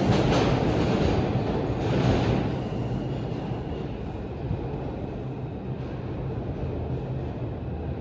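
NYC subway R142 train running on the track, a loud rumble that fades after about two and a half seconds and carries on more quietly as the train moves away.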